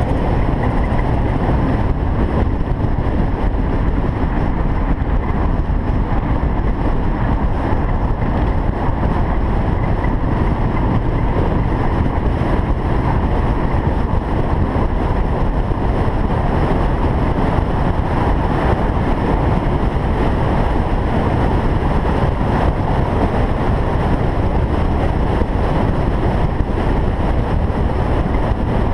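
Single-turbo Toyota Supra driving at a steady speed: a constant rush of engine, road and wind noise with no revving or gear changes.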